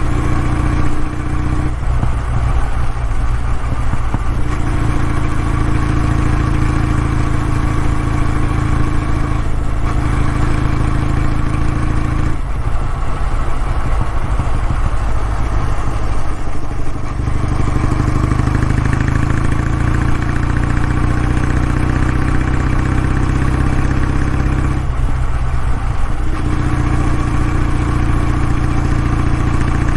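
Kawasaki W650's air-cooled parallel-twin engine running through its exhaust, a steady low throb whose pitch and tone shift several times.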